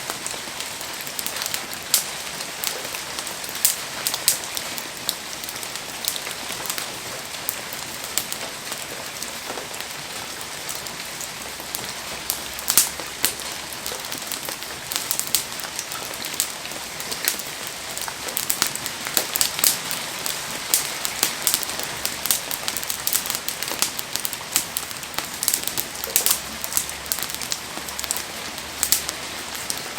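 Heavy rain falling steadily, a continuous hiss with frequent sharp ticks of drops striking nearby surfaces.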